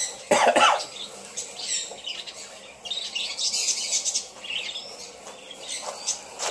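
Birds chirping, with a short, loud sound about a third of a second in.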